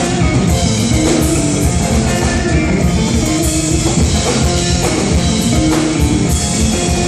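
Live rock band playing an instrumental stretch between sung lines: electric guitar and bass over a steady drum-kit beat.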